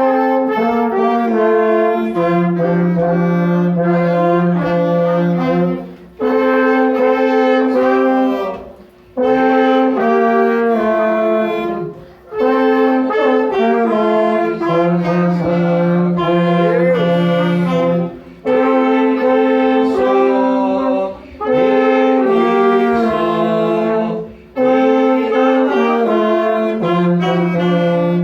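Small wind band of brass and woodwinds, including saxophone and clarinet, playing a hymn in slow held chords. It goes phrase by phrase, with a short break between phrases every few seconds.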